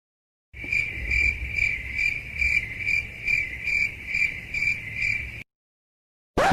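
Cricket chirping sound effect, the 'crickets' meme used for awkward silence. The chirps repeat evenly, about two or three a second, over a low rumble, and stop after about five seconds. A different loud effect starts right at the end.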